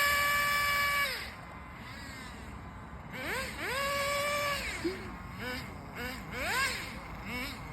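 Small nitro engine of an FTX Banzi RC drift car revving hard, held at a steady high pitch until it drops off about a second in. A second long rev comes around three seconds in, then a string of quick throttle blips, each a short rise and fall in pitch.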